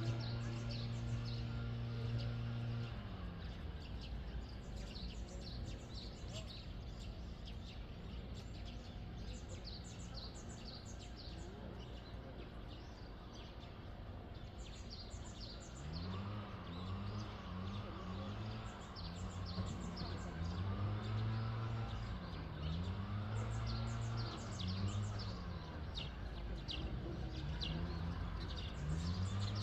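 Small birds chirping repeatedly over steady background noise. There is a low steady hum for the first few seconds, and from about halfway a low sound whose pitch rises and falls.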